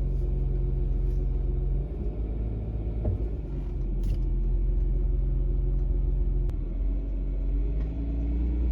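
Ram ProMaster van driving: steady engine and road rumble whose engine note shifts about two seconds in and again near seven seconds, as with gear changes.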